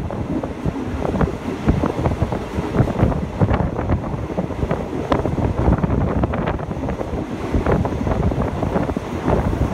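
Wind rushing over the microphone at an open window of a moving passenger train, with the carriage clattering and knocking irregularly over the track.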